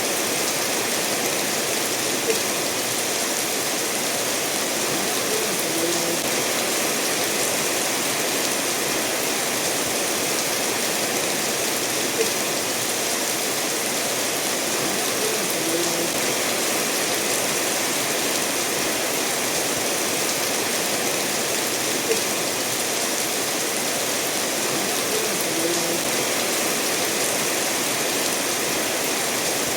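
Steady rainfall mixed with a stream flowing over stones, an even, unbroken wash of water noise. A faint sharp tick recurs about every ten seconds.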